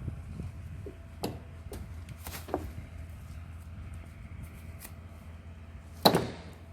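Hands unfastening the packaging on a heavy anvil: scattered light clicks and knocks, then one loud knock with a short ring about six seconds in.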